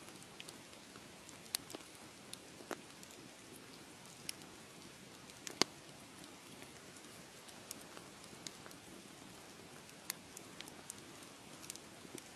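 Wood fire crackling: a soft steady hiss with scattered sharp pops at irregular moments, the loudest about five and a half seconds in.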